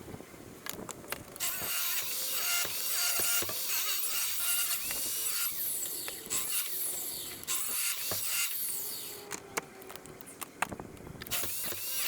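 Mechanical clicking with short squeaky tones, a hand-worked mechanism being operated.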